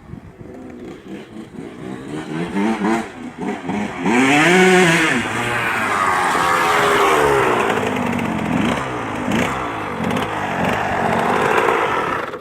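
An 85 cc two-stroke motocross bike's engine revving hard, its pitch sweeping up and down as the rider works the throttle. It builds from about two seconds in, is loudest from about four seconds, and cuts away at the end.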